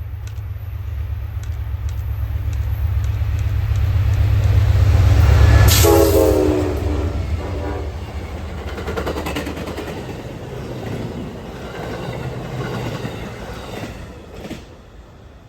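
Amtrak Lake Shore Limited passing at track speed behind GE P42DC diesel locomotives. The engine rumble builds to a peak about six seconds in, with a short horn note dropping in pitch as the lead unit goes by. Then the cars clatter over the rails and the sound fades away.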